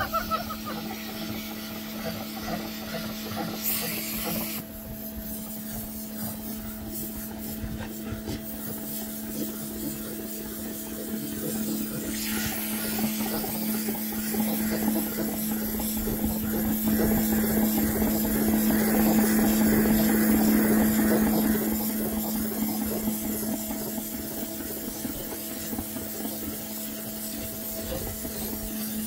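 Pressure washer running steadily: a constant motor-and-pump hum under the hiss of the water jet spraying on the patio paving, louder for several seconds around the middle.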